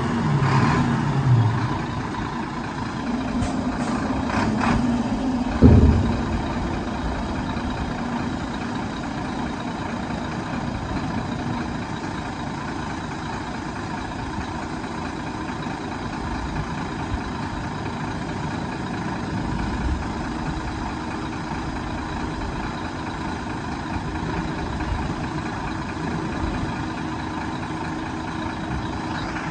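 Sinotruk HOWO 8x4 tipper truck's diesel engine running steadily at idle, with a single loud thump about six seconds in.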